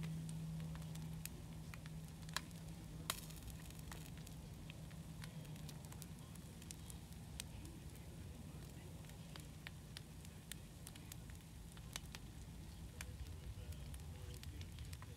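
Meat and an egg frying on a hot griddle, crackling with frequent sharp spits of fat, over a steady low hum.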